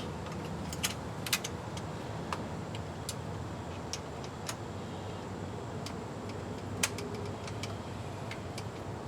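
Scattered light metallic clicks and taps of hand tools and bolts as the transmission valve-body bolts are taken out and refitted, over a steady low hum.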